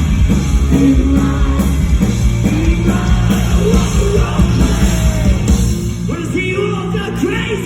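Live rock band playing loud, with singing and yelling voices over the guitars and drums, picked up from the audience in a large hall.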